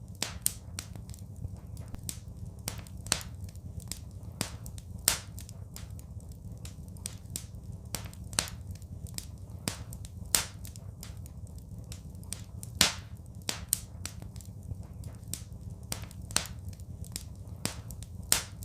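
Wood fire crackling: irregular sharp pops and snaps, with a louder crack every couple of seconds, over a steady low rumble of the flames.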